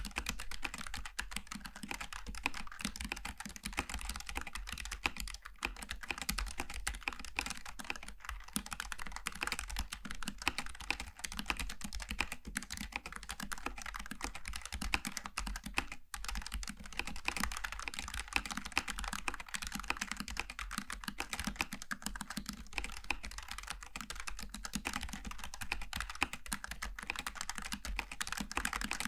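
Continuous fast typing on a Logitech G915 TKL low-profile mechanical keyboard with GL Tactile switches: a dense, even stream of key clicks, with a brief pause a little past halfway.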